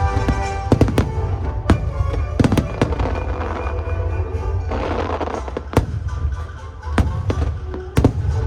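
Aerial fireworks bursting over loud show music: a string of sharp bangs at irregular intervals with a low rumble beneath, and a spell of crackling about five seconds in.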